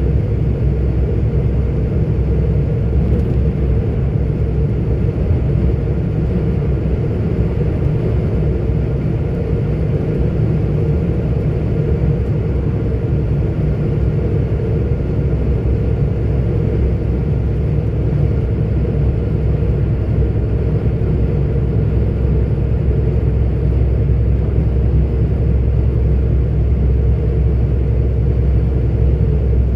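Heavy articulated truck driving at steady speed, its diesel engine and road noise heard from inside the cab as a steady deep drone.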